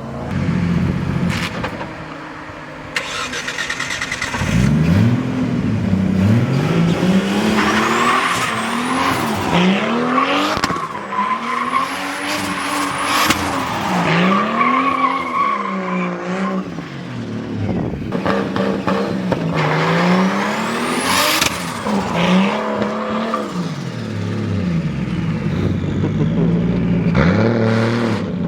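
Car doing a burnout and 360 spins: the engine revs up and down again and again while the tyres squeal and screech against the ground, loudest in the middle stretch and again about two-thirds of the way in.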